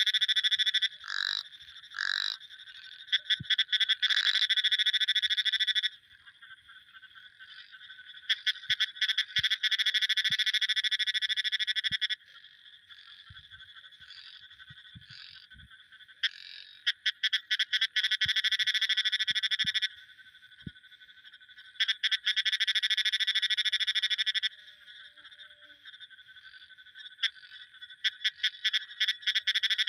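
Frogs calling: loud bouts of rapid pulsed calls, each lasting a few seconds and about five in all, over a fainter continuous chorus between them.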